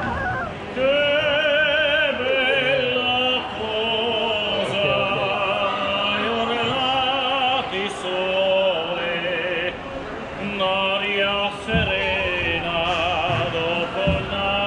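A gondolier singing an operatic-style song solo, holding long notes with wide vibrato.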